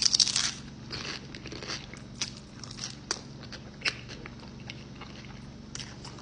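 Person biting into a forkful of chicken spaghetti with a Dorito chip and green beans, the chip crunching loudest right at the bite, then chewing with scattered crunches.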